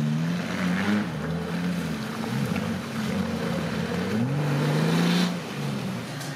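An off-road 4x4's engine revving up and down repeatedly, with one longer rev that holds high and then drops off about five seconds in.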